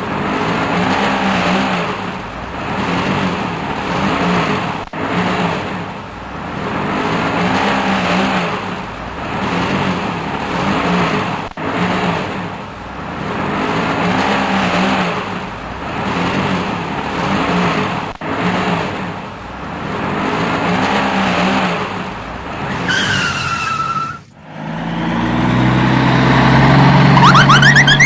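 A vehicle engine sound rising and falling in repeating swells about every two seconds. Near the end it changes to a louder, steadier engine tone.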